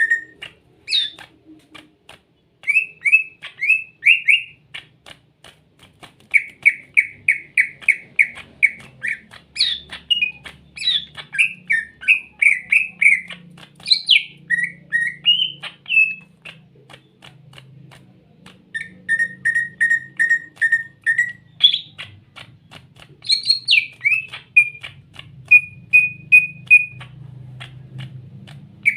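Cucak ijo (greater green leafbird) singing: runs of quick, evenly repeated notes, about five a second, alternating with rising and falling whistled phrases, broken by short pauses.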